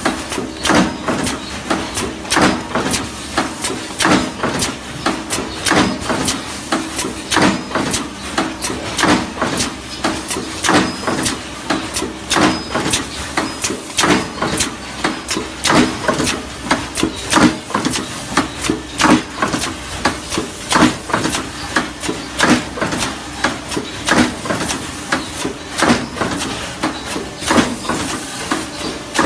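Saw blade machine running, with a fast, fairly regular train of sharp metallic clacks, several a second, over a steady motor hum.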